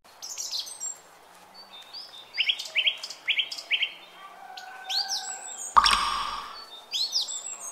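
Small birds chirping, with repeated short high calls, some in quick runs of three or four. About six seconds in comes one louder sound with a low thump.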